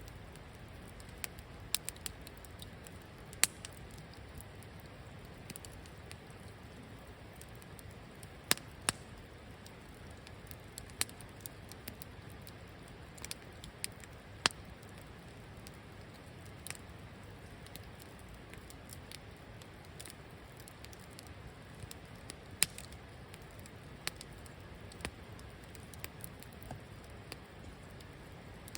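Wood campfire crackling, with irregular sharp pops (a few much louder than the rest) over a steady low rumble.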